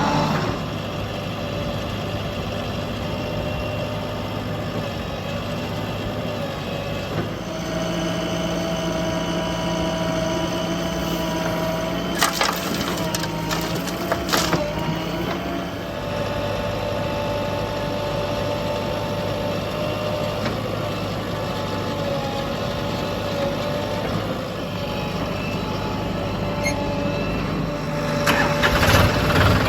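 Heavy diesel engine of earthmoving machinery running, its pitch stepping up about a quarter of the way in and dropping back about halfway. A few sharp knocks and rattles come in the middle, and louder clatter near the end.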